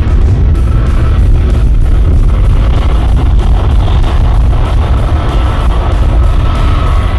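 Airbus A320neo jet engines running very loud and steady, a deep roar with a steady whine over it, heavily buffeted by strong wind on the microphone.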